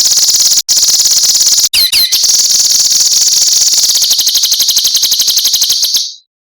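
A songbird's harsh, sharp, very rapid buzzing trill, the 'besetan' style used in bird-training recordings. It is high-pitched, with two short breaks and a couple of quick curving whistle notes about two seconds in, and it cuts off about six seconds in.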